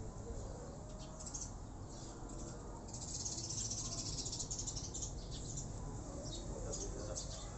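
Birds chirping in the background, busiest about three seconds in and for a couple of seconds after, with rapid high chattering.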